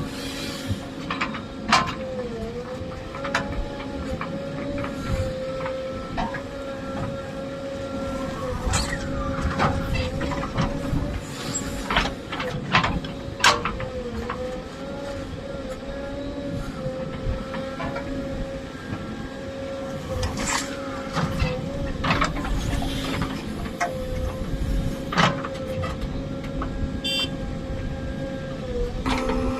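JCB backhoe loader's diesel engine running steadily, its pitch dipping briefly now and then as it takes load, with scattered sharp clanks and knocks.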